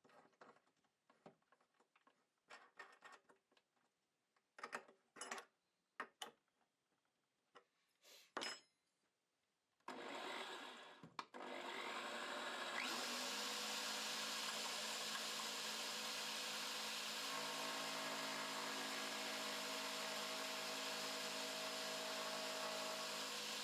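A few scattered knocks and clicks, then an electric drill driving a small wood lathe starts about ten seconds in, cuts out for a moment, and comes up to a steady run.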